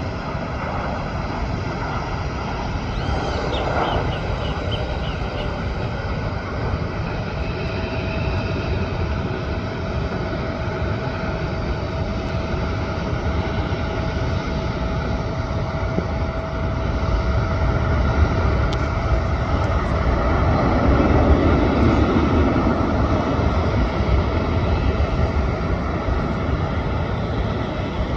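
Jet airliner engines at the airport: a steady rushing noise with a held whine partway through, swelling louder about three quarters of the way in.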